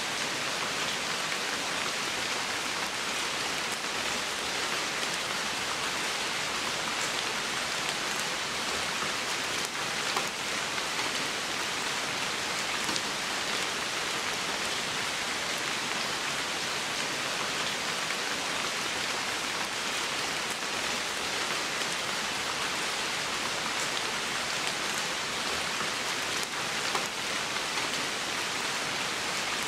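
Steady rain falling on wet moss and leaves of a forest floor, an even hiss with a few sharper single-drop hits standing out now and then.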